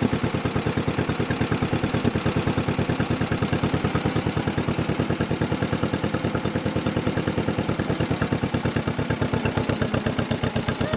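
A 1955 John Deere 40S's two-cylinder engine running steadily with a rapid, even pulse as the tractor is driven slowly in reverse.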